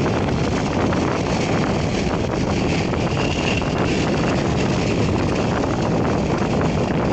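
Boeing 757-300 jet engines running at high power, a steady heavy noise with a faint high whine, mixed with wind buffeting the microphone.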